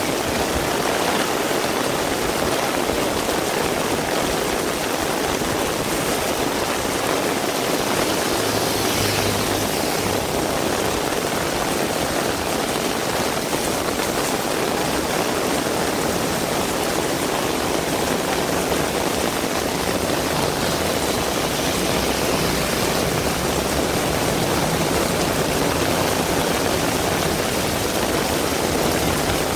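Heavy rain falling steadily, an even hiss, with a faint low hum coming and going in the background.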